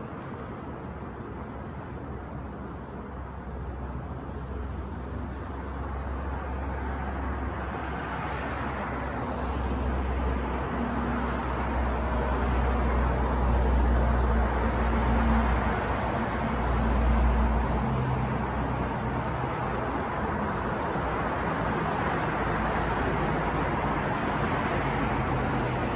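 New York street traffic: a steady wash of passing vehicles that grows louder about a third of the way in, with a deep engine rumble swelling around the middle and then easing.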